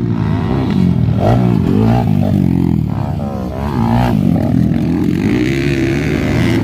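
Several motocross dirt bike engines revving at once during a race, rising and falling in pitch.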